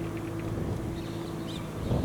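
Kubota M6040SU tractor's diesel engine running steadily, a low, even hum with a fixed pitch.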